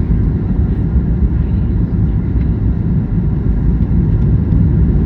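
Steady, loud low rumble inside the cabin of a Boeing 737 MAX 9 airliner on its arrival, the sound of its engines and airflow.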